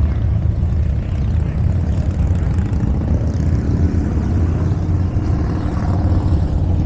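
Motorcycle engines running in the street, a steady deep engine sound.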